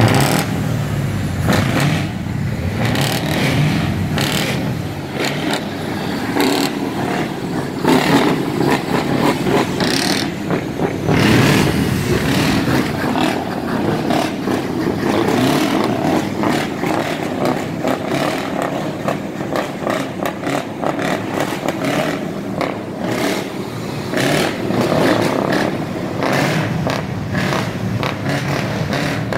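Scania truck diesel engine running and revving loudly through an open aftermarket exhaust, with rapid cracks throughout.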